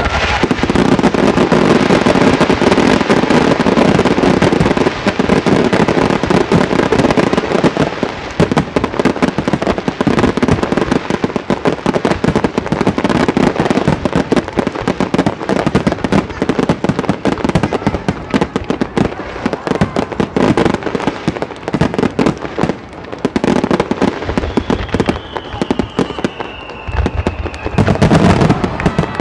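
Fireworks finale barrage: aerial shells bursting and crackling in rapid, overlapping succession without a break. A falling whistle sounds over the bangs about three-quarters of the way through.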